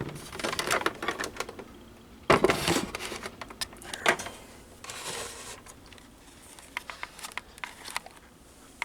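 Scattered plastic clicks, knocks and rustling as the fan's power cord is handled, with a louder knock about two and a half seconds in and another about four seconds in.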